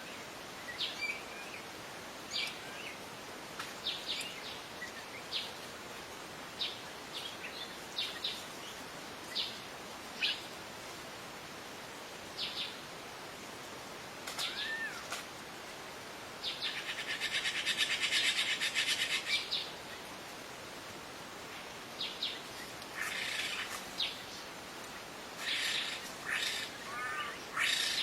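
Several wild birds calling: scattered short, high chirps, with a buzzy, rapid trill of about three seconds around the middle, a shorter one later, and a cluster of calls near the end, over a steady hiss.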